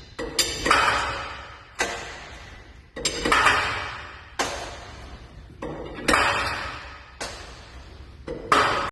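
Metal struck again and again, about once a second at uneven intervals, each blow ringing out and fading before the next.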